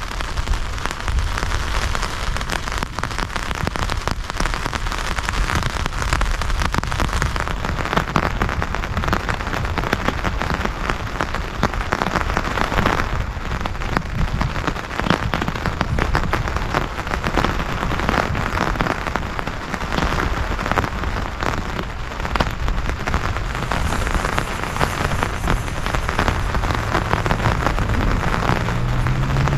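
Heavy rain pouring steadily, a dense, even patter of countless drops.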